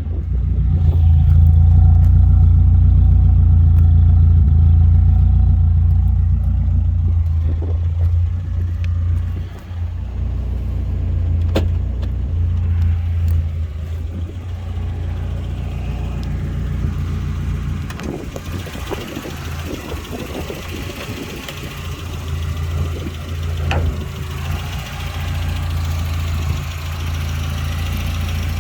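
Mitsubishi Lancer's engine idling, louder for the first several seconds, then settling into a steady idle, with a few sharp clicks over it.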